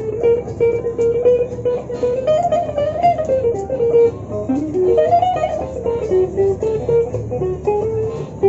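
Jazz on guitar: a single-note melody line that wanders up and down, with a low accompaniment underneath.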